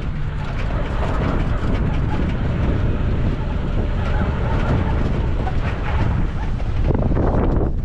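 Vehicle driving over rough dirt terrain: a steady low engine and tyre rumble with rattles, and wind on the microphone.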